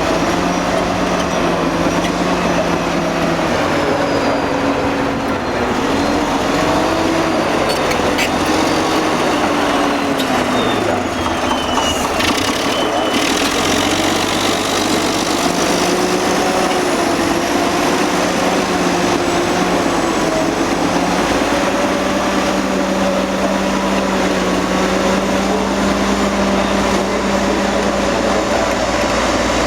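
Old Caterpillar D8 crawler bulldozer's diesel engine running steadily under load while dozing. Its note sags about ten seconds in and then picks back up.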